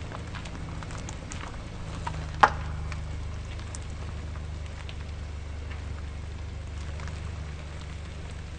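Car tyres rolling on gravel: a steady low rumble with scattered crunching and popping of stones, and one louder crack about two and a half seconds in.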